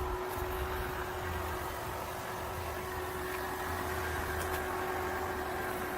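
Small robot vacuum cleaner running: a steady motor hum with one constant tone over a low rumble.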